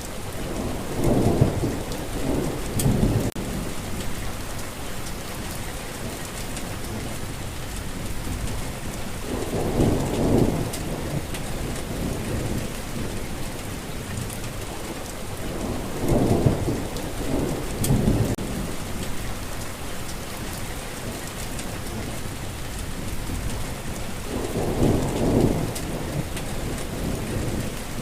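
Steady heavy rainfall with a dense, even hiss, overlaid by four low rolls of thunder that swell up and die away, about one every eight seconds.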